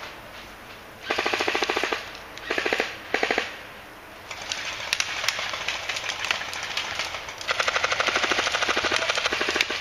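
Airsoft guns firing rapid full-auto bursts: three short bursts in the first few seconds, scattered single shots in between, then a longer burst of about two seconds near the end.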